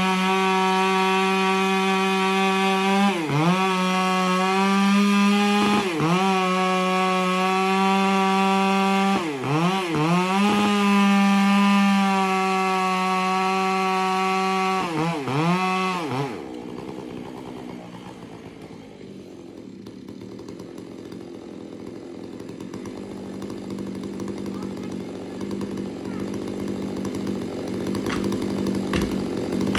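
Two-stroke chainsaw running at full throttle, cutting into a large tree trunk, its high steady pitch dipping briefly several times as the chain bites. About sixteen seconds in it drops away to a quieter, rougher running that slowly grows louder again, with a few sharp clicks near the end.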